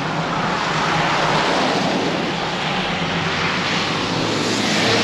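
Steady rushing noise of riding a road bike in the rain, with wind buffeting a bike-mounted action camera's microphone and the tyres on a wet road.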